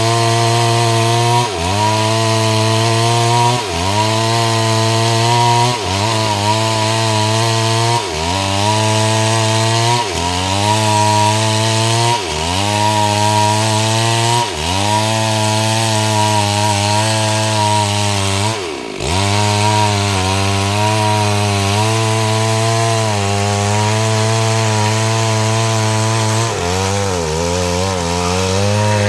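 STIHL MS 382 two-stroke chainsaw running at high revs while cutting mahogany lengthwise. The engine pitch drops sharply and recovers about every two seconds, and the sound falls off just at the end.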